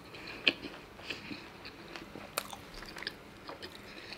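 A person chewing food close to the microphone: crisp crunches and wet mouth clicks, with a sharper crunch about half a second in and another about two and a half seconds in.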